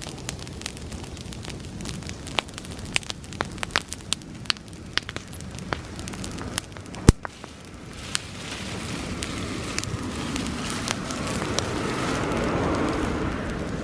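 Bonfire of dry grass crackling and popping, with one louder pop about halfway through. After that a rushing sound of flames builds and swells as the dry grass flares up.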